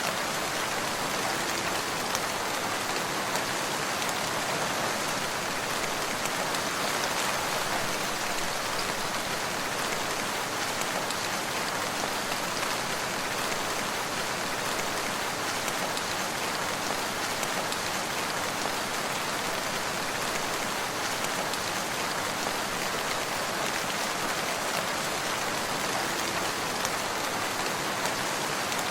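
Steady rain falling on surfaces, an even hiss with scattered individual drops.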